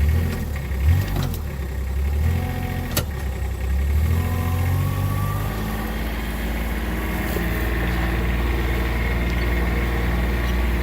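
Motor vehicle engine running, its pitch shifting up and down over the first few seconds and then holding steady, with a sharp click about three seconds in.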